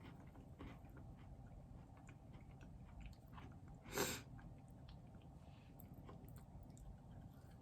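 Faint close-up chewing of a soft, chewy cookie, with small wet mouth clicks and one louder short sound about four seconds in.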